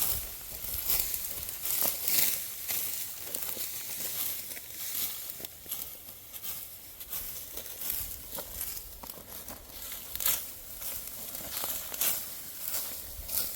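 Dry wheat stalks crunching and rustling in quick, irregular strokes as the crop is reaped by hand with a sickle.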